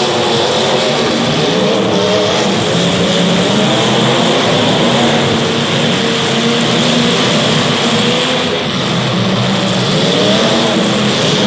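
Several race car engines running together in a pack, their pitches rising and falling as they accelerate and lift around the track.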